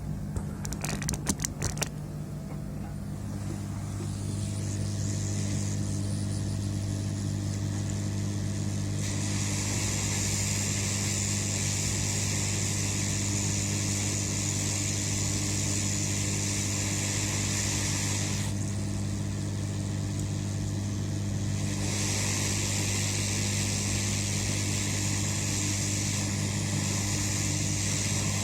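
Steady electric hum with a hiss of blowing air that comes in about nine seconds in, drops out briefly past the middle, and returns. A few sharp clicks come near the start.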